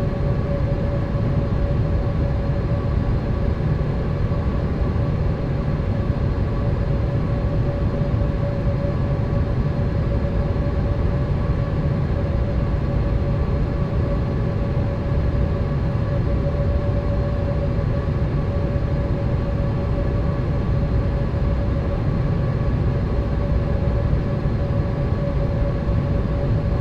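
Steady Boeing 787 cabin noise: a low, even rush of air and engine noise with a steady hum tone over it that doesn't change.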